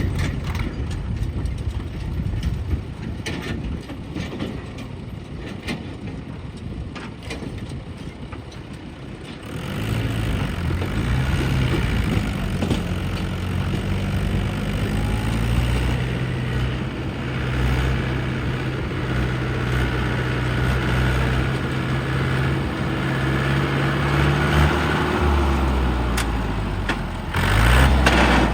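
Diesel engines of a JCB 3DX backhoe loader and a tractor at work while loading mud. For about the first ten seconds the engines run lower with scattered knocks. Then the engine note comes up and holds steady, and it rises and gets louder again near the end.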